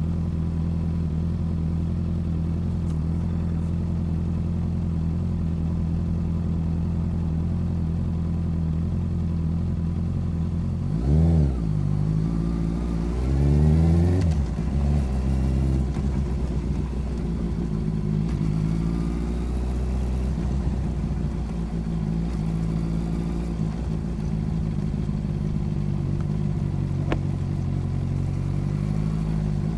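Motorcycle engine running steadily on the move, with a quick rev that rises and falls about eleven seconds in, then climbing in pitch as it accelerates a couple of seconds later before settling back to a steady run.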